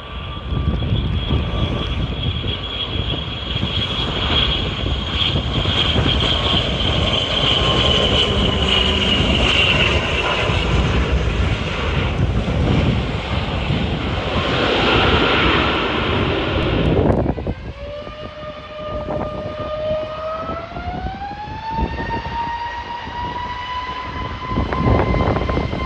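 Airliner engines whining, with strong gusty wind rumbling on the microphone; the whine slowly drops in pitch. After an abrupt cut about two-thirds in, a quieter engine whine rises in pitch as the engines spool up, then holds steady.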